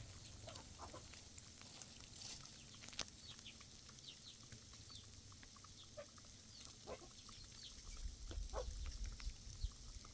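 Faint scattered bird calls: many short high chirps and a few lower cluck-like calls, with one sharp click about three seconds in.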